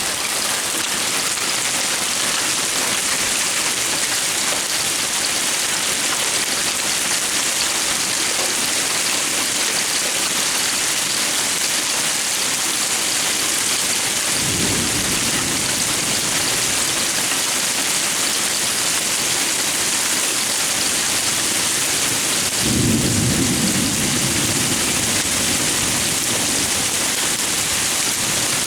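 Heavy thunderstorm downpour with hail, a steady dense hiss of rain and hailstones striking. Thunder rumbles twice: briefly about halfway through, and louder for several seconds past the two-thirds mark.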